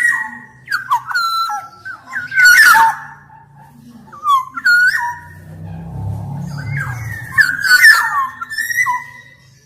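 Black-naped oriole (kepodang emas) singing: fluty whistled phrases with sliding notes, some with a harsh edge, repeated in short bursts.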